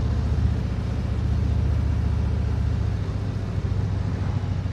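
Harley-Davidson V-twin motorcycle engine running under way, a steady low pulsing note that eases slightly about three seconds in.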